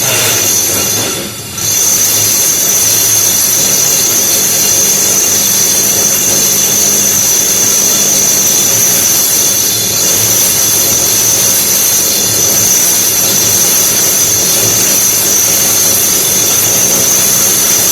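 Electric drill boring into a brick wall, running continuously with a steady high whine over loud grinding noise. It dips briefly about a second and a half in.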